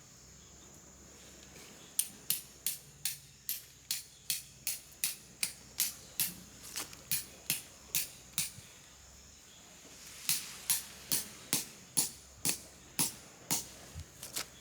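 A hammer striking a metal tent stake into the ground: two runs of steady, evenly spaced blows, about two or three a second, each with a short metallic ring, with a pause of about two seconds between them.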